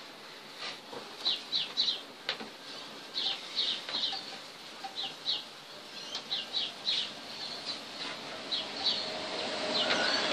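Small birds chirping nearby: short, sharp, high chirps in quick clusters of two or three, repeating every second or so.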